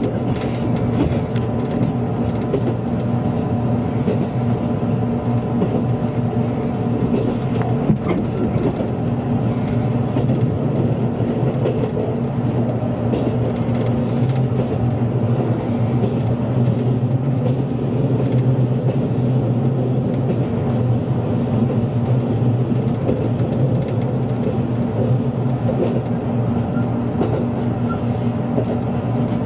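Train running steadily at speed, heard from inside the carriage: a constant low hum and rumble with a few short clicks from the wheels and track.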